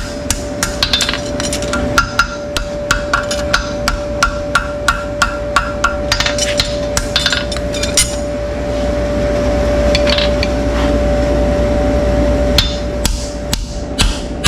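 Hammer striking repeatedly in short sharp blows, about two to three a second, pausing for a few seconds and then resuming near the end, over a steady faint tone.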